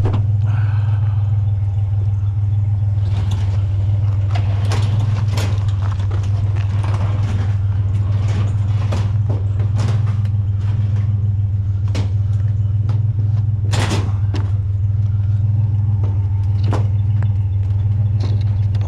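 Truck engine idling steadily, with repeated short metal clanks and knocks as lightweight metal shelving is handled; one sharp bang about fourteen seconds in.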